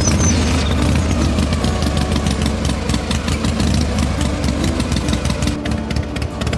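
An engine running steadily at idle, with a rapid, even firing beat.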